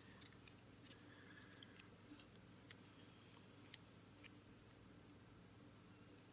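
Faint, sharp little clicks and ticks scattered over the first four seconds or so, from handling a Tech Deck fingerboard while fiddling with the loose nut on its truck; otherwise near silence.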